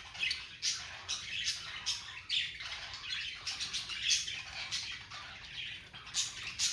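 Budgerigars chattering and squawking, a rapid run of short, high-pitched calls several times a second.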